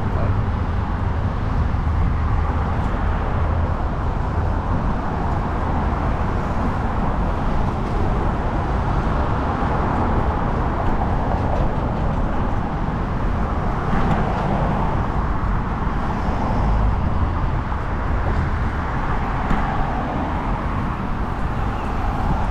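Steady traffic noise from a busy main road, heard while riding along it, with a constant low rumble and no clear single event.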